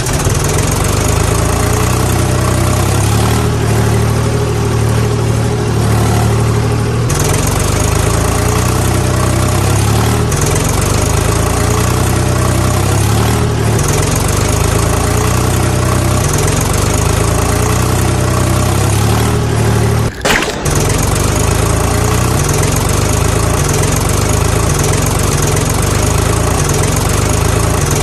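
Heavy vehicle's engine running steadily at idle, with a short break and a sharp click about twenty seconds in.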